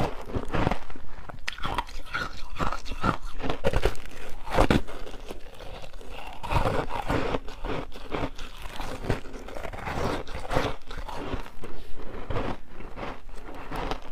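Close-up crunching and chewing of humidifier-style freezer frost soaked in passionfruit juice, with a steady run of irregular crunching bites.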